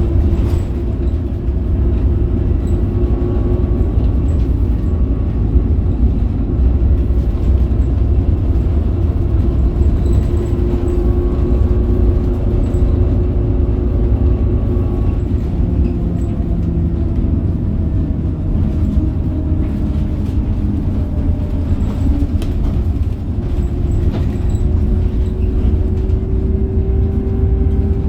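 Scania K270UB bus driving, its Scania DC9 9-litre diesel and ZF Ecomat automatic gearbox running under way. A steady heavy low rumble, with a whine that drifts slowly in pitch and rises near the end.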